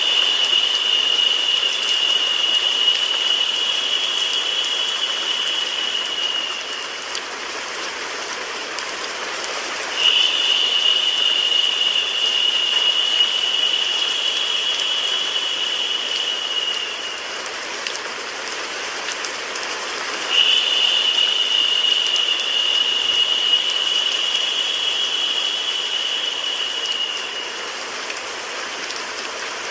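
Recorded rain sound mixed with steady white noise, an even hiss with no separate drops standing out. A brighter, louder high hiss joins it three times, each lasting about seven seconds and repeating every ten seconds or so, as in a looped track.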